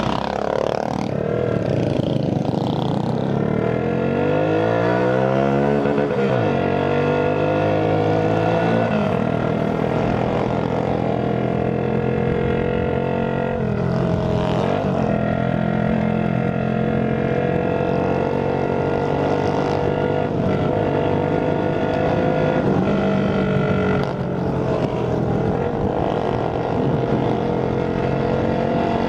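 Tuned Shineray Phoenix 50cc scooter engine revving up over the first several seconds as it accelerates, then held at a steady high pitch while cruising. It briefly eases off and picks up again a few times.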